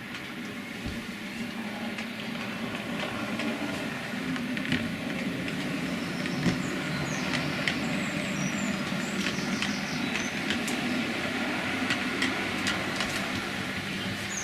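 Bachmann OO gauge Class 47 model locomotive running along the track with its coach: a steady motor hum and scattered clicks of wheels over rail joints, growing louder over the first few seconds as it draws closer.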